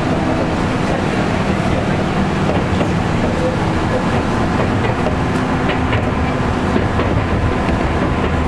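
Train running on the line: a loud, steady rumble with a low hum, and a few light clicks near the end.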